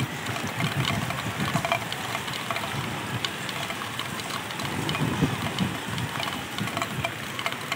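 Rainy outdoor ambience: a steady hiss scattered with small sharp ticks like falling drops, over an engine running in the background with an uneven low rumble.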